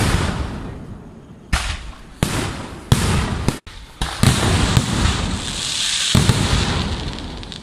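Aerial fireworks shells bursting in a quick series of loud bangs, about six in all, each dying away with an echo. In the middle of the series comes a long hissing crackle of burning stars.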